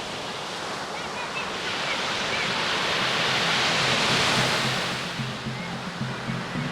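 Sea surf washing onto the beach, the rush of water swelling to a peak about four seconds in and then easing off. Background music with low sustained notes comes in about halfway through.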